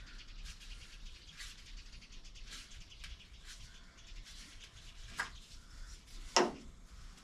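Quiet workshop handling noise: a few faint clicks over a low hiss, then a sharper click about five seconds in and a louder single knock near the end.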